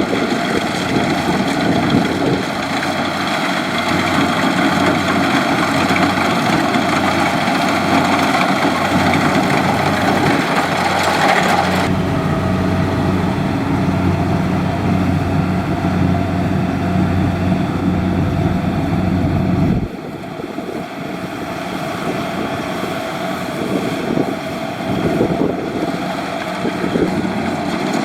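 Kubota DC70 Plus combine harvester's diesel engine and machinery running steadily. About twelve seconds in the sound changes abruptly to a deeper steady hum, which stops just as suddenly about twenty seconds in.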